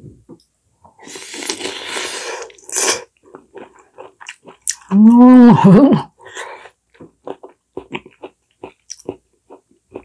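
A person chewing a mouthful of soft braised radish: wet mouth noises early on, then many small clicking chews. About five seconds in comes a loud, short hummed 'mmm' whose pitch rises and falls.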